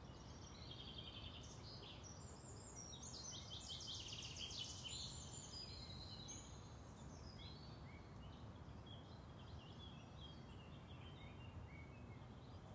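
Faint birdsong: birds chirping, with a rapid trill about three to five seconds in, over a low steady hiss of outdoor background noise.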